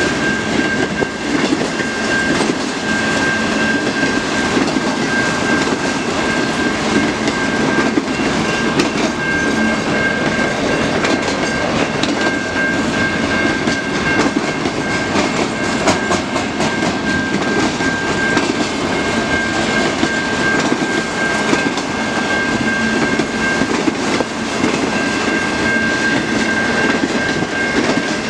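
Freight train cars rolling past with a steady rumble and repeated wheel clicks over the rail joints, and a steady high ringing tone throughout.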